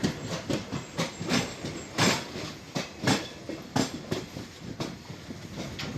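Passenger train running along the track, its wheels clattering over the rail joints in a string of sharp knocks over a steady rumble.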